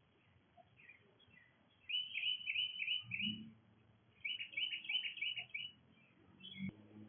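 A songbird singing two quick phrases of rapidly repeated high notes, a second or so apart, with softer scattered chirps around them. A low steady hum comes in near the end.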